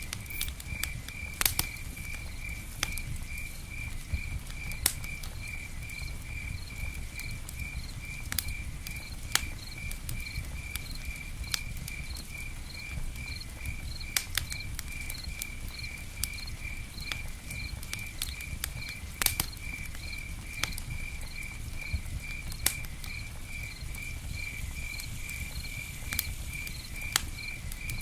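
Campfire crackling, with scattered sharp pops over a steady low rumble, while a cricket chirps steadily, about two chirps a second.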